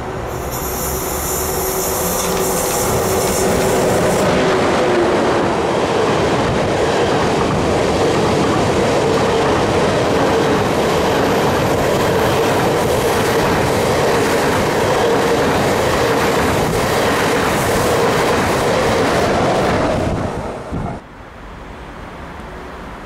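Deutsche Bahn ICE high-speed train running past close alongside the platform: a loud, steady rush of wheels on rail with a steady hum through it. There is a high hiss in the first few seconds, and the noise cuts off sharply near the end.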